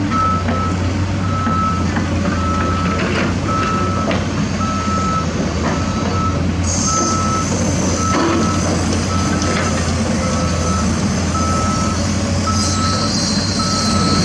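Reversing alarm on a heavy construction machine beeping steadily at one pitch, with a diesel engine running underneath. A hiss comes twice, about halfway through and near the end.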